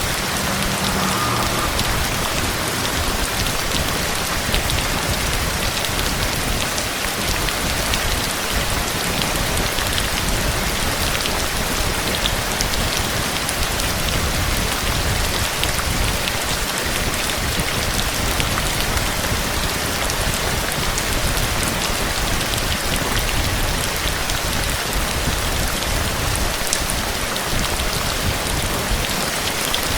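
Rain falling steadily: an even hiss with scattered small drop ticks.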